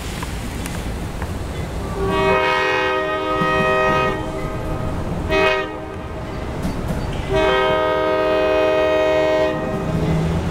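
CSX diesel locomotive running light, sounding its multi-note air horn in the grade-crossing pattern: a long blast, a short one, then a final long one, over the low rumble of its diesel engine.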